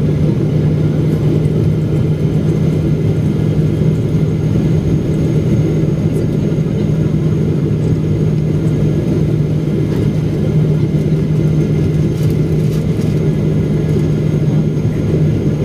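Steady cabin noise of a Boeing 777-300ER: its GE90 engines and rushing air give a constant low hum and rumble, with a few faint clicks near the end.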